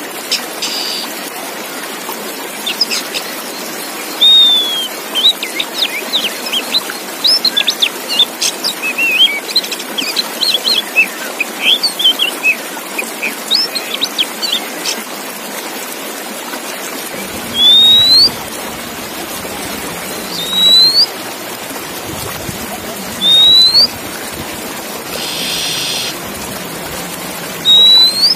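Male Oriental magpie-robin song: a fast, varied run of chirps and whistled notes, then single rising whistles repeated about every three seconds, with one harsher buzzy note among them. A steady hiss runs underneath.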